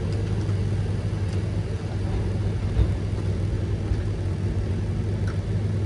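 Forestry forwarder's diesel engine running steadily while the machine drives over rocky forest ground, with one louder low knock about three seconds in.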